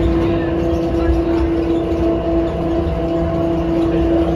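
Automated airport people-mover train running at speed through a tunnel, heard from inside the car: a steady low rumble with an even, held motor hum.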